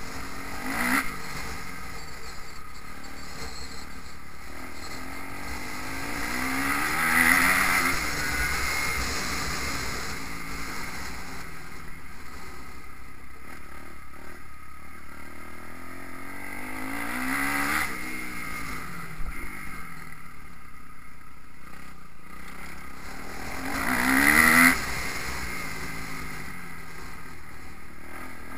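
Motocross motorcycle engines revving up and down as bikes ride the track, swelling loudest about 7, 17 and 24 seconds in, with wind rumbling on the microphone throughout.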